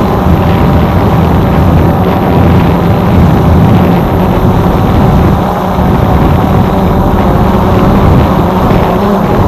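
Small drone's propellers and motors running steadily, a loud unbroken whirr with a low rumble.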